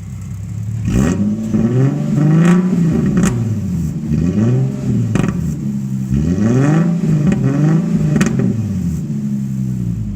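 2008 Infiniti G37S's 3.7-litre V6 revved several times from idle through its exhaust with the mufflers removed, the pitch climbing and falling repeatedly before settling back to idle near the end. Sharp crackles and pops come from the exhaust as the revs rise and fall.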